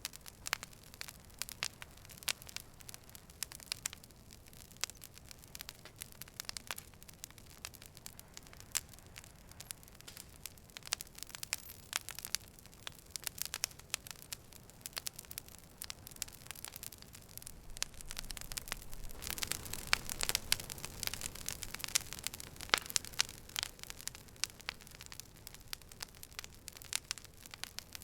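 Campfire crackling and popping: a steady run of sharp snaps over a soft hiss, busier and a little louder for a few seconds past the middle, with a low rush of flame.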